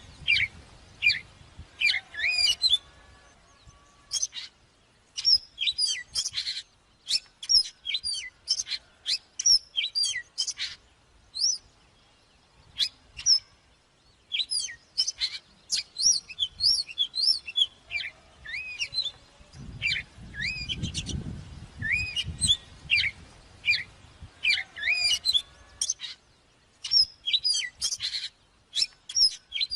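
Oriental magpie-robin singing: quick phrases of sharp, varied whistles and chirps, broken by short pauses. A low rumble comes in briefly about two-thirds of the way through.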